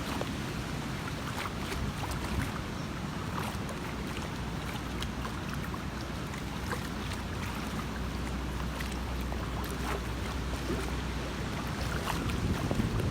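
Storm wind buffeting the microphone over floodwater, a steady low rumble with scattered small splashes.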